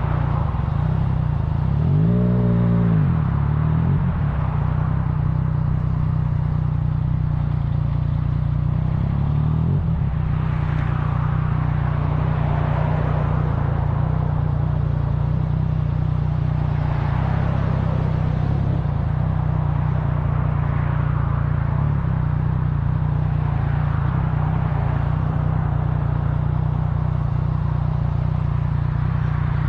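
Vehicle engine running steadily under road and wind noise, with a brief rise and fall in pitch about two seconds in.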